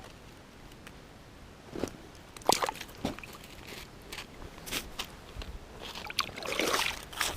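Wet sloshing and squelching of water and slush, with several sharp clicks and knocks from about two seconds in and a longer splash near the end.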